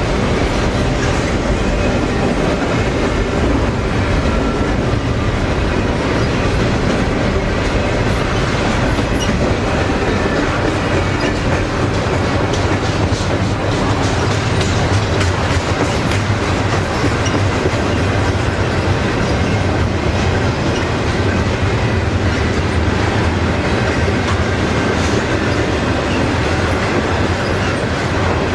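Cars of a double-stack container freight train rolling past at close range: a steady rumble of steel wheels on rail, with the clicking of wheels over rail joints and a faint squeal of wheel flanges.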